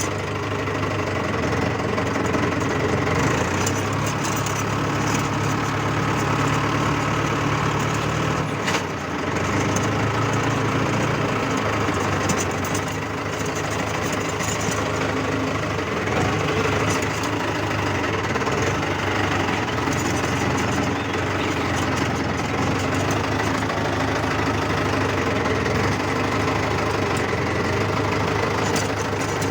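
Mahindra tractor's diesel engine running steadily, its note shifting slightly a few seconds in and again around nine seconds, with one brief click near nine seconds.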